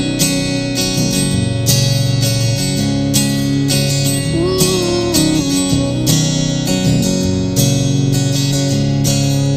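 Acoustic guitars strumming a steady rhythm in an instrumental break of a live pop song.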